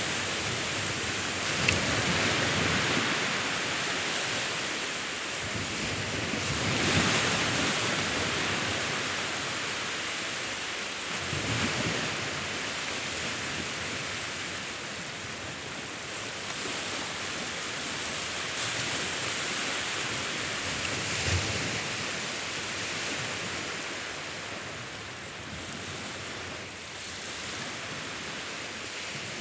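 Sea waves washing onto a shore, a continuous hiss of surf that swells and eases every few seconds.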